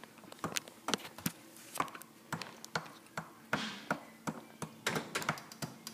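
A utensil stirring microwaved chalk in water, tapping and clicking irregularly against the container as the softened chalk is crushed, about two or three knocks a second.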